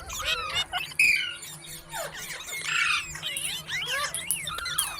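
Parrot squawking and chattering in quick, rising and falling calls that follow one another without a break and sometimes overlap.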